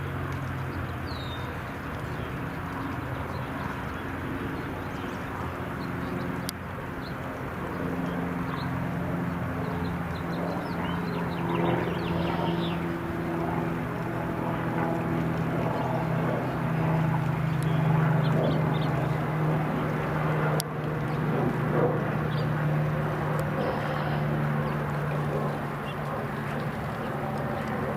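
Aircraft flying over: a steady engine drone that builds to its loudest past the middle, with the pitch easing slightly lower as it goes. Small birds chirp faintly now and then.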